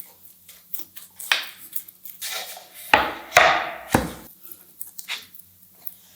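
Hand tools working wood: irregular knocks and scraping strokes on timber, with two heavier knocks about three and four seconds in.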